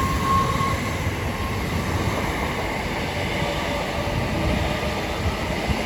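c2c Class 357 Electrostar electric multiple unit pulling away from the platform: steady train running noise with a faint whine.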